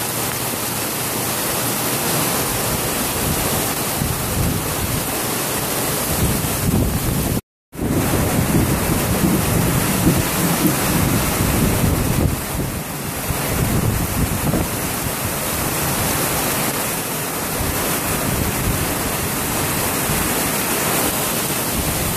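Heavy rain pouring steadily, with wind gusting on the microphone. The sound cuts out completely for a moment about seven seconds in.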